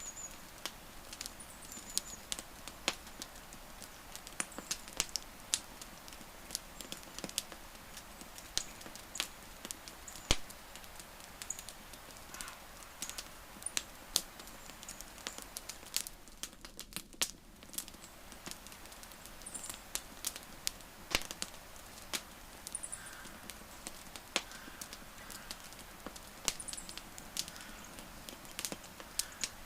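Wood fire crackling: irregular sharp pops and snaps, several a second, over a faint steady hiss, with a few faint high chirps now and then.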